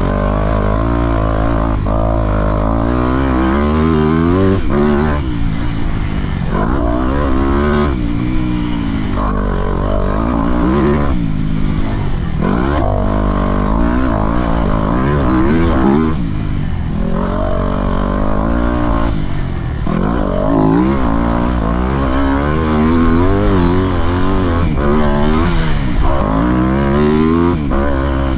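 Motocross bike engine revving hard again and again, its pitch climbing through the revs and dropping back, with short breaks where the throttle is shut off.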